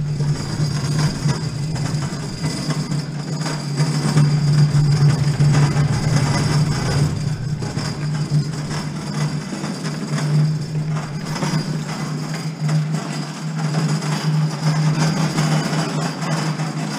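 Dolly wheels rolling under a 500-pound hot water tank, a steady low rumble that swells and eases as it moves.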